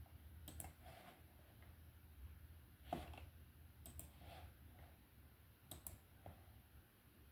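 Near silence with a few faint, sharp clicks scattered through it, some in quick pairs, over a low steady room hum.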